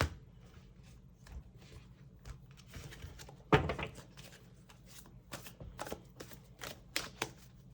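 Tarot cards being handled and shuffled: a run of small card clicks and riffles, with one louder knock about three and a half seconds in.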